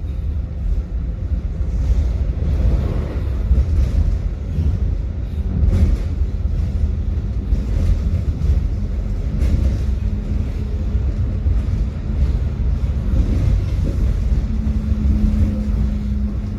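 Tram running along its route: a steady low rumble of wheels on rails and the car body, with a steady motor hum joining near the end.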